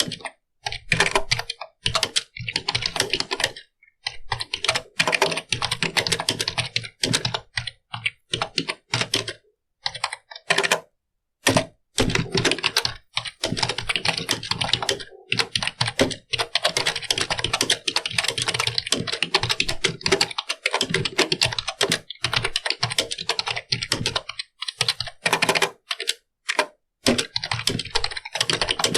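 Computer keyboard being typed on: fast runs of keystroke clicks broken by short pauses, the longest about eleven seconds in.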